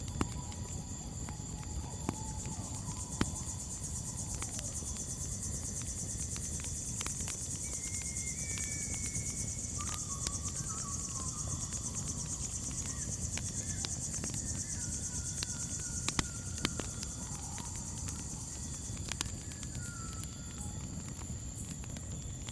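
Crickets chirring in a steady high trill, with scattered crackles and pops of a campfire and a few faint whistled calls.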